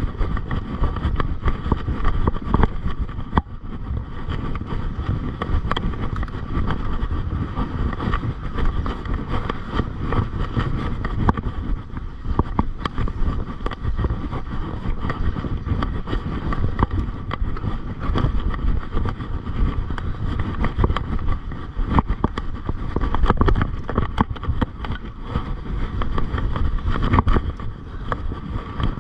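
A mountain bike being ridden over a rough dirt trail: a constant low rumble of wind and riding noise, with frequent rattles and knocks from the bike jolting over bumps.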